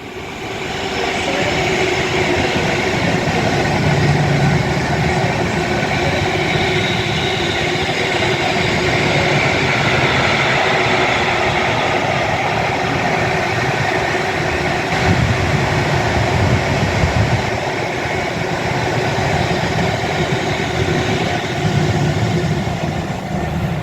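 A pair of Class 350 electric multiple units runs close by into the station. There is a loud, steady rumble of wheels on rail with a steady hum over it, rising in the first second or two and holding throughout.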